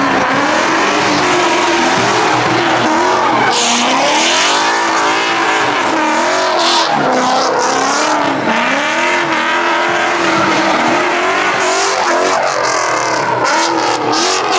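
A car engine revving up and down over and over, with bursts of tire squeal from spinning tires.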